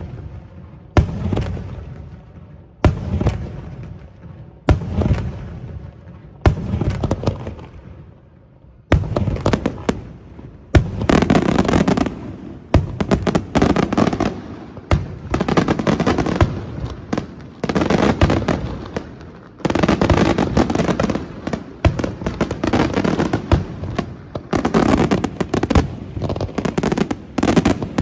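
Daytime fireworks: single loud bangs about every two seconds, each trailing off in a rumbling echo, then from about nine seconds in a dense barrage of rapid reports and crackling that runs on almost without a break.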